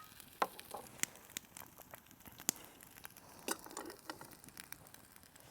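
Campfire crackling, with faint irregular pops and snaps.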